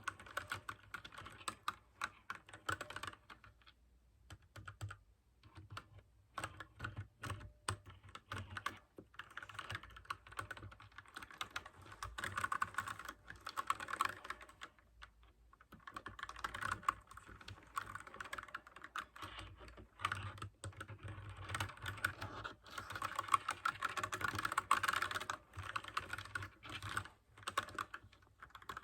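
Mechanical keyboard with clicky blue switches typed on quickly in fast runs of keystrokes, broken by short pauses about four seconds in and again about fifteen seconds in.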